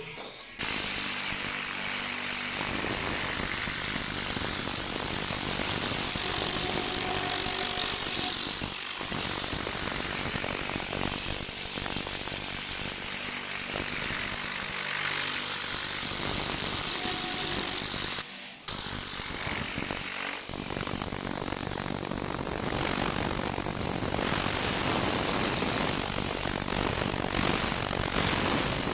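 Motorized detailing equipment running: a loud, steady rushing hiss with a motor hum underneath, broken by a short cut about eighteen seconds in.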